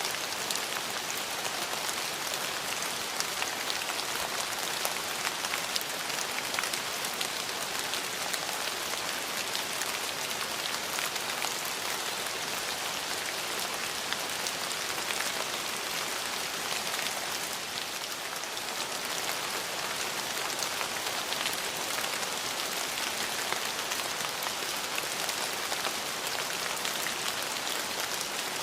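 Steady rain falling on hard surfaces: a dense, even patter of many drops, with small individual drop ticks scattered through it.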